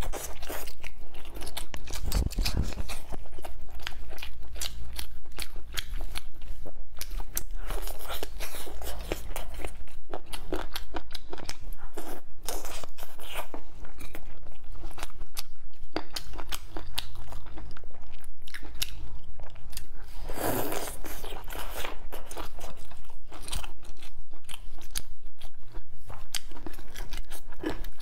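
Close-up eating sounds of a person biting meat off braised spare ribs and chewing it, a dense run of quick wet mouth clicks that never lets up.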